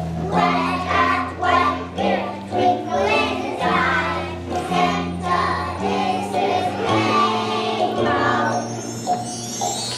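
Young children singing together as a choir over musical accompaniment. The singing stops about eight and a half seconds in.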